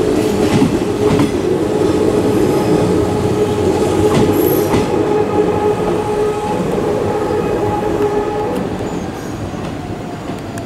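Hanshin Railway electric train running past the platform, wheels clattering on the rails over a steady hum, fading as the last cars move away near the end.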